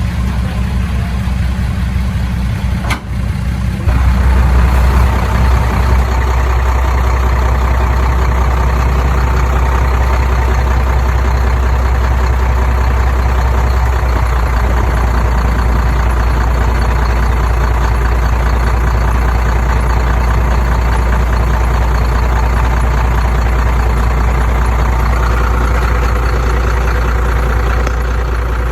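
Heavy diesel machinery engine running steadily, a deep drone with a sharp break about three seconds in, after which it runs louder and steadier.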